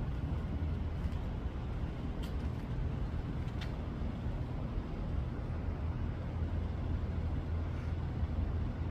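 Steady low background rumble, with a couple of faint short clicks about two and three and a half seconds in.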